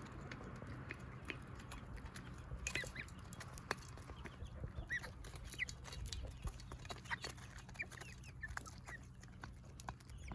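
Chickens feeding: a few short, high chirps now and then, over scattered light taps of the birds pecking at food. All of it is faint, with a steady low hum underneath.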